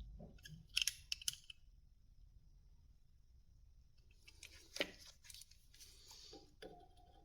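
Calipers being handled and slid while measuring a turned tenon, faint: a few light metal clicks about a second in, then a scraping slide with more clicks around five seconds in.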